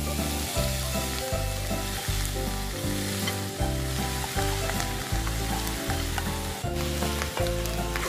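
Boiled pork hock sizzling and frying in a pan of hot oil with onion and garlic, stirred with a wooden spoon that scrapes the pan a few times near the end. Background music with a steady beat plays underneath.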